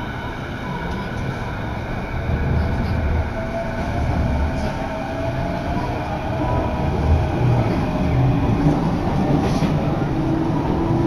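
Electric commuter train heard from inside the carriage as it pulls away from a station: the traction motors whine upward in pitch over the rumble of wheels on rail, growing louder as it speeds up.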